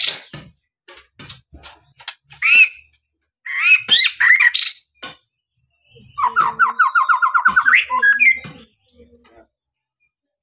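White-rumped shama (murai batu) singing: short phrases of sweeping whistled notes, then a rapid even trill of about eight notes a second, falling quiet near the end.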